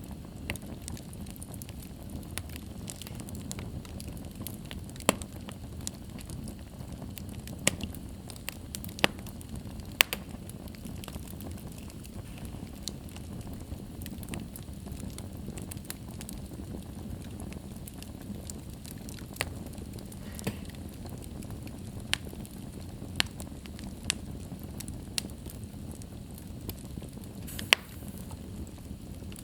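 Wood fire burning in a fireplace: a steady low rush of flames with irregular sharp crackles and pops, a few of them much louder than the rest.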